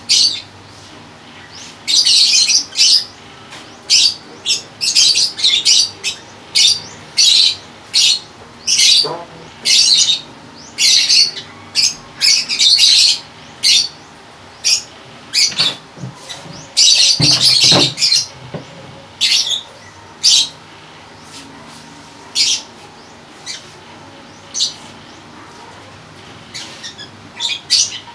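A small bird chirping over and over in short, loud, high bursts, thinning out near the end.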